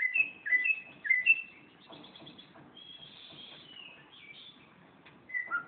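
Songbirds calling: three loud, short two-note chirps in the first second and a half, then softer twittering, and another loud call that drops in pitch near the end.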